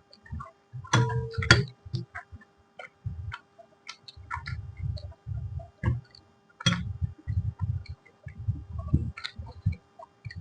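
A person chewing food close to the microphone: irregular wet mouth clicks and smacks over low, soft chewing thuds.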